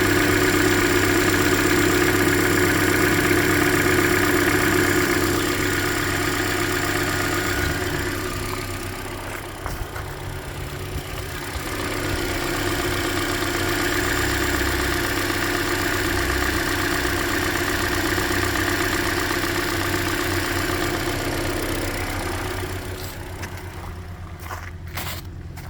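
2013 Hyundai Elantra's 1.8-litre four-cylinder engine idling steadily, recorded very close over the top of the engine, with the owner listening for a tick on cylinder 3 that he suspects may be piston slap or something deeper than the lifters. The engine sound dips for a few seconds in the middle and fades near the end, where a few sharp clicks are heard.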